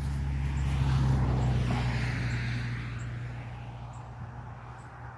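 A motor vehicle passing by: its low hum and road noise swell to a peak about a second in, then fade away.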